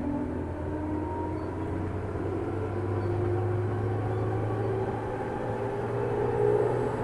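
Interior running sound of a JR 205-series electric commuter train, recorded in motor car MoHa 205-287 with its external-fan traction motors. A motor and gear whine rises slowly in pitch as the train gathers speed, over a steady low hum and rumble.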